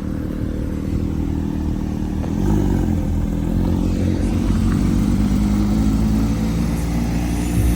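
Car engine running close by with a deep rumble, rising in pitch and getting louder from about two and a half seconds in as it revs up.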